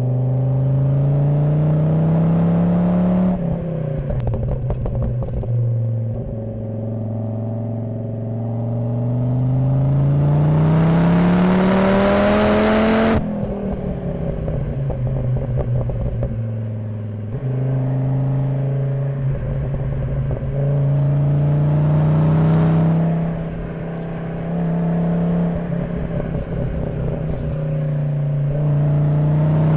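Volvo 850 T5's turbocharged 2.3-litre inline-five (B5234T3) through a Magnaflow exhaust, heard close from the rear bumper, pulling hard with its pitch climbing and then falling sharply as the throttle is lifted, about three seconds in and again about thirteen seconds in. A few seconds of crackle follow the first lift-off, and later the engine holds steadier at part throttle with shorter pulls.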